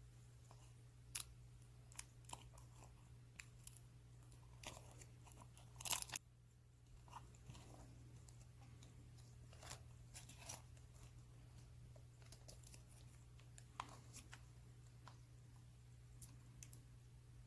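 Faint, scattered clicks and crinkles of a small plastic doll and its toy packaging being handled, with a brief louder cluster about six seconds in, over a low steady hum.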